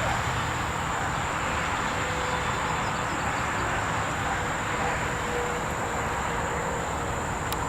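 Steady outdoor background noise, an even low rush, with a thin, continuous high-pitched tone over it.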